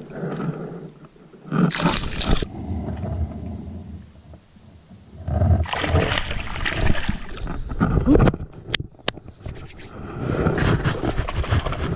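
Water splashing and sloshing against the side of a kayak, in irregular bursts, as a caught largemouth bass is let back into the pond. A few sharp knocks come about two-thirds of the way through.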